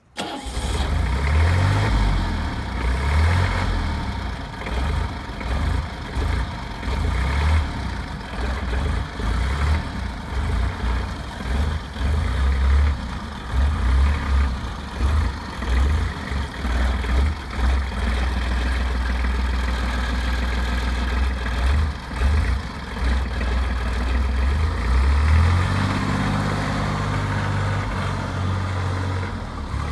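Engine of a Still DFZ 15 flatbed towing truck running, its low note swelling and dipping as the throttle changes. About 25 seconds in it settles into a steadier, even hum.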